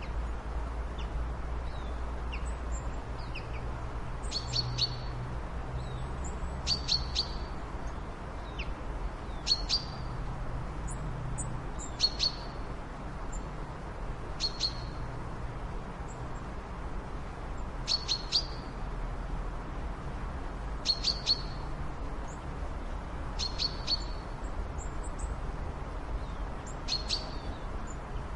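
A bird chirping: short, high calls of two or three quick notes, about nine of them, repeating every two to three seconds over a steady low background noise.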